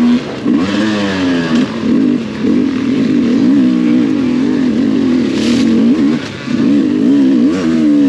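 2023 Sherco enduro dirt bike engine revving up and down as it is ridden hard along a trail, its pitch rising and falling quickly with the throttle and briefly dropping off a few times.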